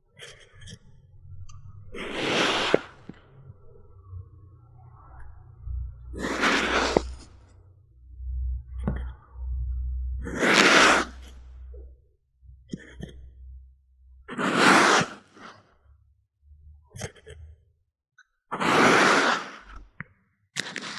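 Kinetic sand being worked by hand or tool: five short, soft crumbling swishes, about four seconds apart, with a faint low rumble between them.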